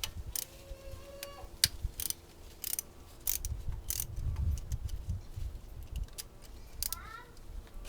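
Ratchet wrench clicking in irregular runs, with metal tool clicks, as the two long 12 mm bolts holding the fuel rail are loosened.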